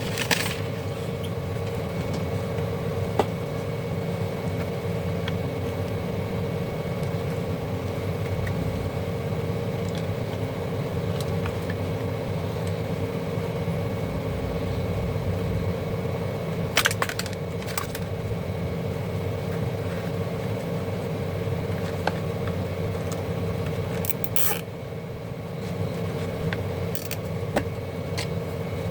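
A steady low hum with a few sharp clicks and scrapes from handling things, the loudest of them about two-thirds of the way through.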